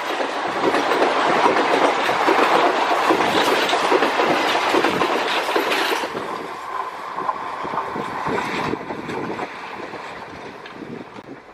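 Passenger coaches of an express train rushing past at speed, their wheels clattering rapidly over the rail joints. The clatter thins out and fades over the last few seconds as the train draws away.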